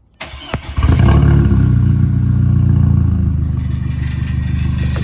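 Audi A4 engine with both mufflers removed being started: the starter cranks briefly, the engine catches about a second in and runs loud, then settles a little into a fast idle.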